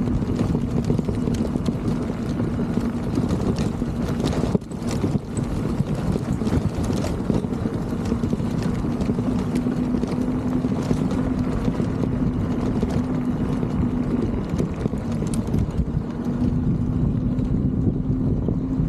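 Electric mobility scooter rolling along: a steady motor hum that drops away twice for a few seconds, under heavy wind rumble on the microphone and scattered clicks and rattles from the ride over the pavement.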